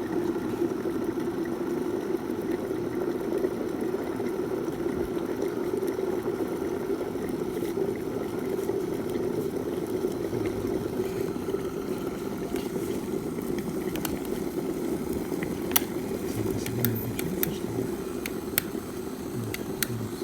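Electric kettle heating water: a steady rumbling hiss as the water nears the boil, with a few sharp ticks scattered through the last few seconds.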